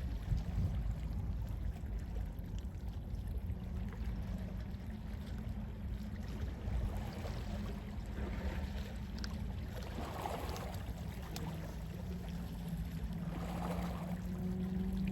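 Gentle sea waves washing in over a steady low rumble, with two swells of wash about two-thirds of the way through and near the end. A faint low steady hum runs underneath.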